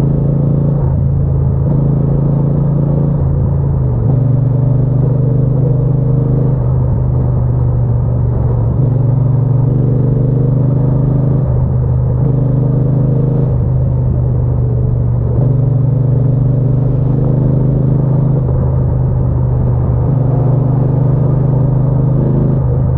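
Triumph Bonneville T120's 1200 cc parallel-twin engine and exhaust running under way. The engine note shifts in steps every second or two with small throttle changes.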